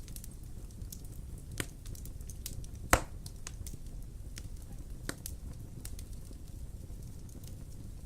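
Wood fire burning in a fireplace: scattered sharp crackles and pops over a low steady rumble of the flames, with one loud pop about three seconds in.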